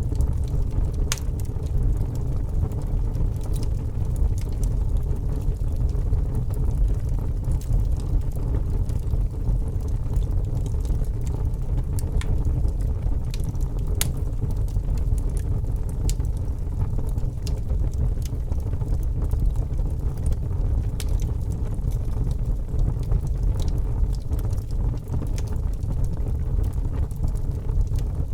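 Wood fire burning in a fireplace: a steady low rumble with scattered sharp crackles and pops from the logs.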